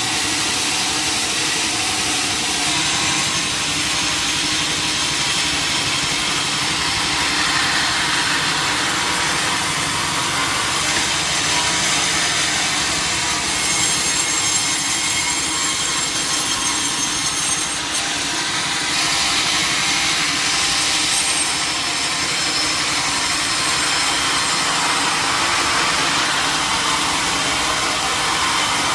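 Sawmill saw cutting through a log: a steady, loud machine rasp, growing harsher and higher for a few seconds around the middle and again a little later.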